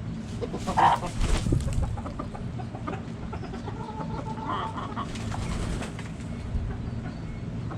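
Backyard chickens clucking, with a louder call about a second in and another pitched call around four to five seconds in, over a steady low hum.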